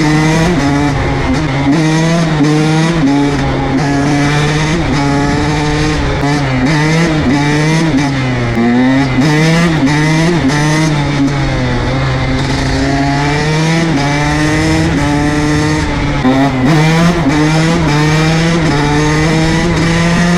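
KTM SX 125 two-stroke motocross engine under way, its pitch rising and dropping again and again as it revs and shifts gears.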